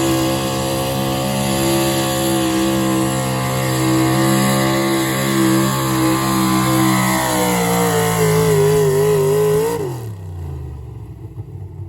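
4wd pulling truck engine running at full throttle under load down the track, its pitch steady, then sagging and wavering as the engine bogs down near the end of the pull. About ten seconds in the engine sound cuts off suddenly, leaving a lower rumble.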